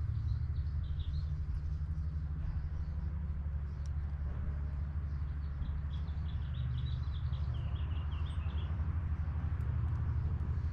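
Bird chirps, a few about a second in and then a quick run of high chirps that step downward from about six to nine seconds in, over a steady low rumble.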